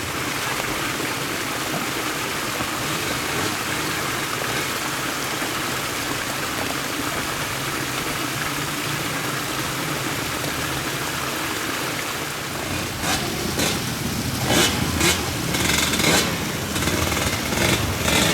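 Motorcycle engine running steadily under a steady noisy hiss, then from about thirteen seconds in a run of short, loud, sudden bursts.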